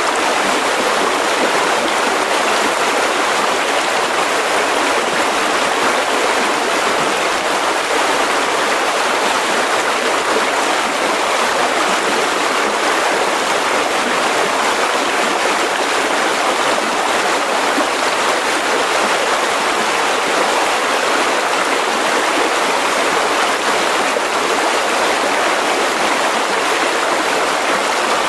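Mountain river rushing steadily over rocks: a constant, even flow of water.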